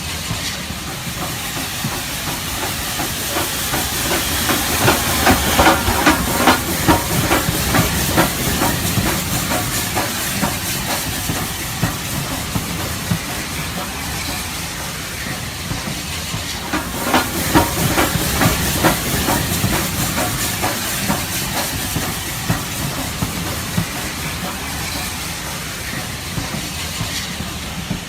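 Model steam train running on the layout: a steady hiss with fast, even clicking, swelling louder twice as the train comes close.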